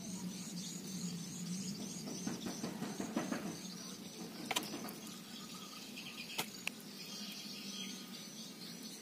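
Faint background bird chirping, a quick run of short high repeated chirps in the first few seconds, with a few sharp little clicks around the middle.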